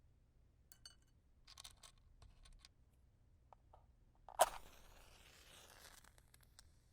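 A wooden match struck on the box: a few faint clicks and scrapes of handling the matches, then one sharp strike about four and a half seconds in as the head catches and flares with a hiss for about a second and a half.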